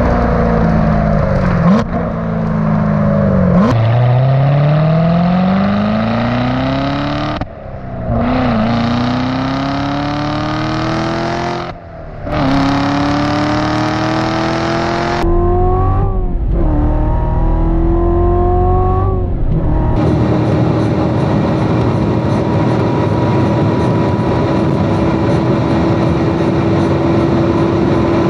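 Chevrolet Corvette C7 Z06's supercharged 6.2-litre LT4 V8 exhaust under hard acceleration. The engine note climbs in pitch through several gears, with brief dips at each upshift, then holds a steady drone at constant high speed for the last several seconds.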